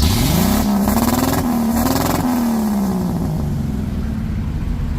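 Vehicle engine revved once: the note shoots up at the start, is held high and raspy for about two seconds, then falls back to a low idle.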